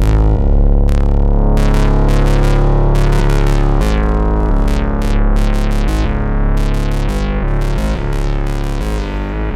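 Erica Synths Black System III Eurorack modular synthesizer playing a sequenced pattern: a stream of short notes with sharp attacks over a sustained bass line that steps to a new pitch about every second.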